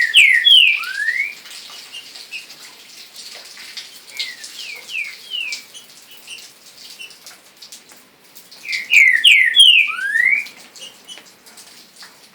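A songbird singing a loud whistled phrase three times, about every four to five seconds: a few quick falling notes, then one rising slur, the middle phrase softer. Faint short chirps fill the gaps.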